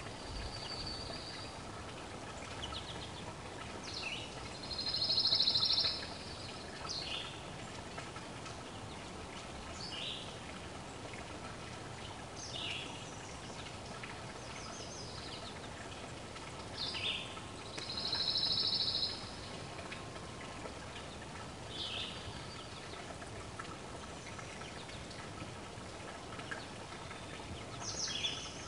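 Wild birds singing: a high, buzzy trill of about a second and a half comes four times, with short notes falling in pitch scattered between, over a steady background hiss.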